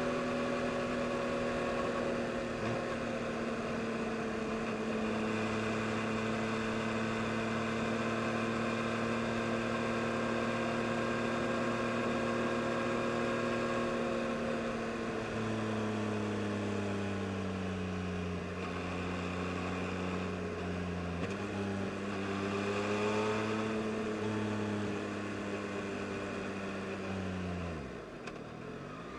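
2022 Yamaha MT-09 SP's inline three-cylinder engine under way, its pitch steady then easing down in steps as the bike slows through the gears, with a short rise in revs, then dropping sharply near the end to a low idle.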